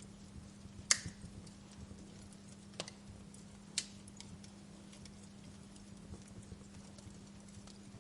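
Wood fire crackling in a fireplace: scattered sharp pops and ticks over a low hiss, with a loud pop about a second in and two more near three and four seconds. A steady low hum runs underneath.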